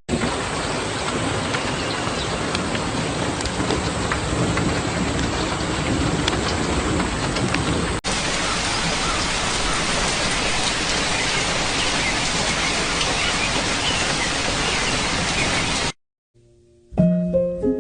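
Steady rain, a dense even hiss, with an abrupt switch to a slightly brighter rain sound about halfway through. Near the end it cuts off, and after a moment of silence soft piano-like music begins.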